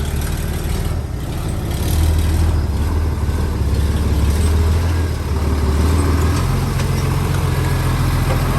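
Heavy diesel engine of earthmoving machinery running steadily with a low rumble, its engine note shifting about two-thirds of the way through.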